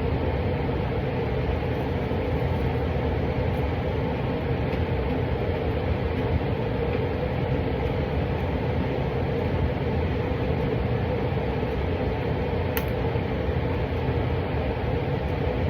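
Steady rumbling background noise with a faint, even hum and no change throughout.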